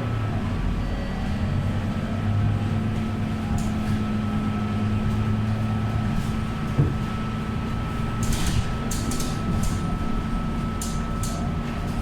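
Scania K230UB city bus running, its diesel engine giving a steady drone with a faint high whine over it. There is a single thump about seven seconds in, and sharp clicks and rattles near the end.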